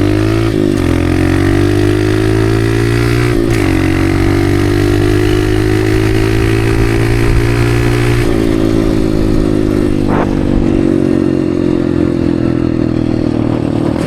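Dirt bike engine running under throttle while riding, its pitch climbing over the first several seconds with a brief dip about three seconds in, then dropping at about eight seconds and holding steady.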